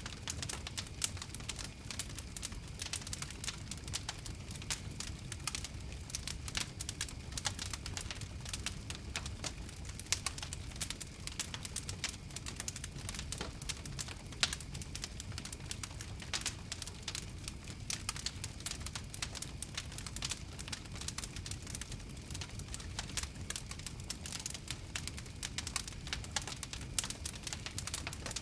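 Wood fire crackling: a steady low rumble of burning with dense, irregular sharp pops and snaps throughout.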